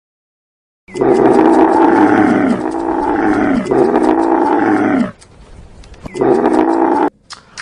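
Loud animal roaring calls: a long run of about four seconds that falls in pitch three times, then a shorter call about a second later.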